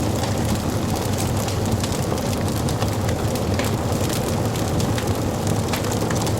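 Wood fire burning in a fireplace: a steady low rush of flame with many small crackles and pops scattered throughout.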